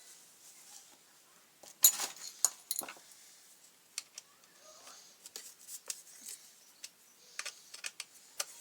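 Sharp clicks and light knocks of hand tools and plastic trimmer parts being handled during disassembly. The loudest cluster comes about two seconds in, followed by scattered lighter clicks.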